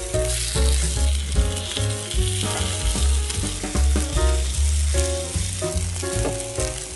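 Seaweed and tofu patties sizzling as they pan-fry, over background music with a deep bass line.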